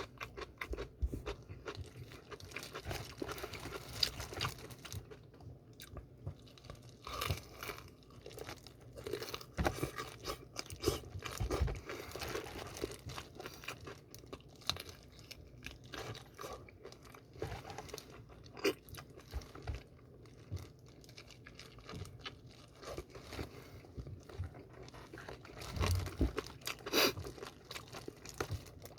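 Close-up chewing and crunching of fried chicken with a crisp seasoned coating: irregular crunches and wet chewing, with a louder run of bites near the end.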